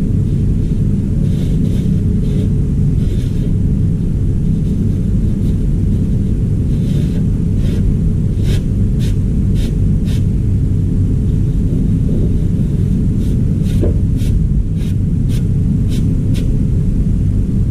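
Steady low mechanical rumble with a constant hum, and a run of light sharp clicks or taps in the second half.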